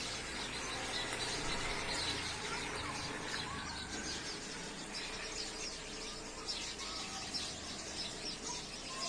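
Birds chirping and calling: a dense scatter of short high chirps with a few short whistled glides.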